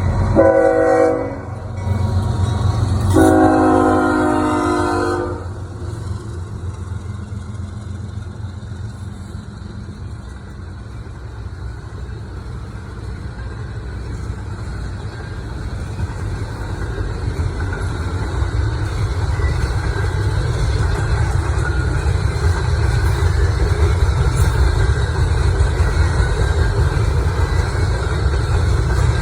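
Locomotive horn sounded twice, a short blast and then a longer one, followed by the steady low rumble of the train, growing louder toward the end.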